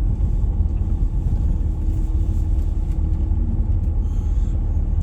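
Steady low road and engine rumble heard inside the cabin of a vehicle driving along, with a faint steady hum over it.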